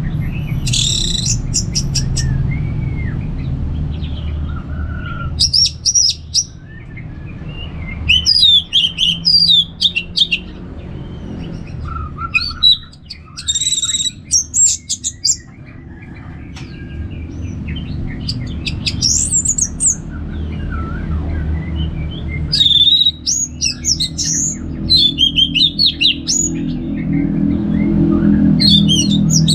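Orange-headed thrush singing in short bursts of quick, varied whistled phrases, with brief pauses between them, over a steady low rumble.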